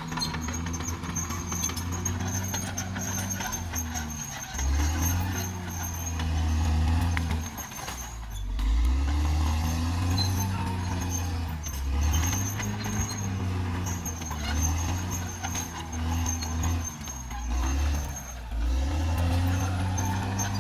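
Caterpillar D6R XL bulldozer's diesel engine working, its pitch rising and falling over and over as the load changes.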